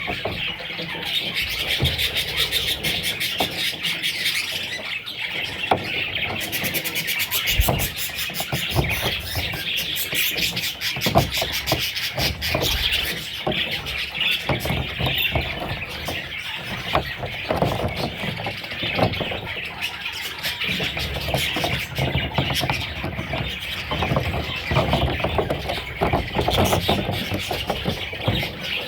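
Budgerigar chicks calling continuously, a dense high-pitched chatter of rapid overlapping calls, with a few soft knocks in between.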